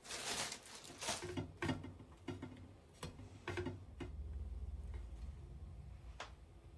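Objects being handled at home: a quick run of light clicks and knocks, some with a brief ring, then a low rumble from about four seconds in.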